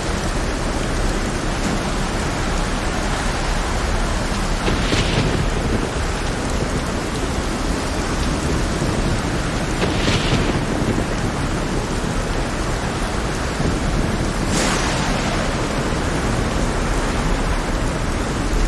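Heavy rainstorm at sea: a dense, steady hiss of rain over a low thunder rumble, with three brief hissing surges about five seconds apart.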